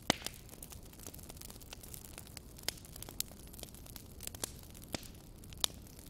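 Bonfire crackling: irregular sharp pops and snaps over a low, steady rush of flame, the loudest pop just at the start.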